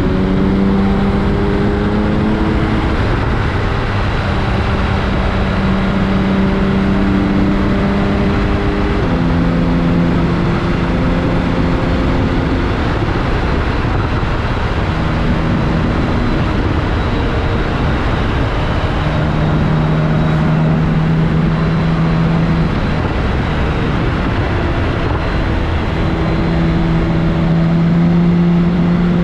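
BMW K1600GTL's inline-six engine running through a Hattech aftermarket muffler while riding, its note stepping up and down in pitch with throttle and speed and fading at times, over steady wind and road noise.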